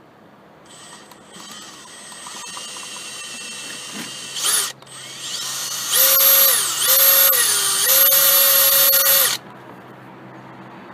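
Electric drill running a small stub drill bit into a snapped water-pump stud, drilling a pilot hole for a screw extractor. It runs softly at first, gives a short loud burst just past the middle, then runs loud with the motor speed dipping twice before stopping suddenly.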